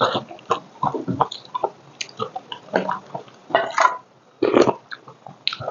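A person's mouth eating close to a clip-on microphone: irregular wet chewing, smacking and clicking, in short bursts with a brief pause about two thirds of the way through.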